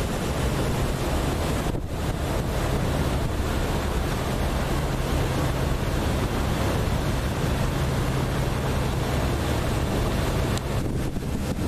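Steady wind buffeting the microphone on board a lake passenger boat, over the constant low hum of the boat's engine.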